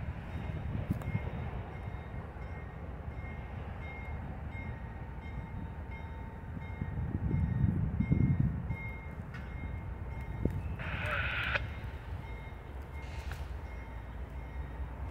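Sounds of an unseen train approaching. A low rumble swells around the middle, a faint bell or beeper repeats at a steady beat, and a short higher-pitched blast comes about eleven seconds in.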